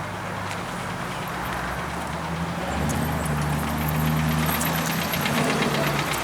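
A car engine running steadily. About two and a half seconds in, its note rises a step and holds, and a fast light ticking comes in over it.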